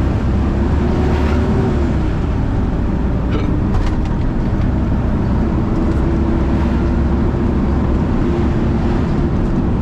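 Steady engine and road noise of a truck being driven, heard from inside the cab, with a constant low drone and a few faint ticks.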